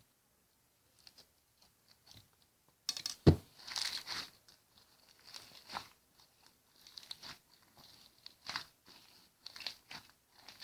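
Slime being squeezed and pressed by hand, a run of irregular crackling, popping and squishing noises that starts about three seconds in, with one sharp loud pop just after it starts.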